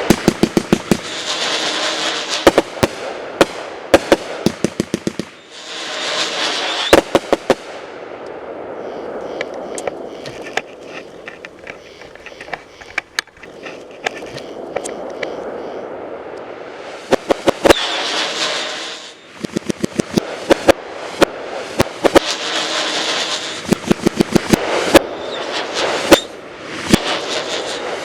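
Parrots Prattle 500 g fireworks cake firing: loud hissing whistles, and flurries of sharp pops and crackling. A long stretch of crackling runs through the middle.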